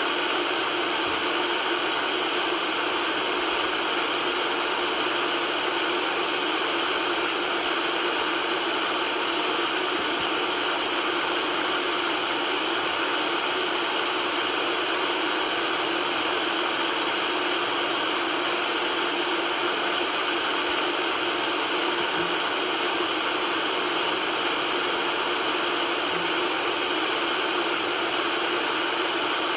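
Steady synthetic white noise, an even hiss with almost no bass and no change in level.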